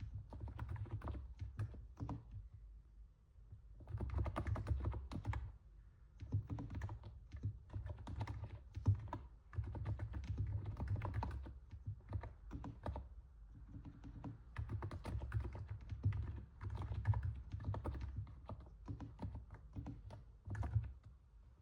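Typing on a NIZ 68 Pro capacitive keyboard: runs of quick, soft keystrokes with a deep thud to each press, the sound likened to stepping on snow, broken by short pauses.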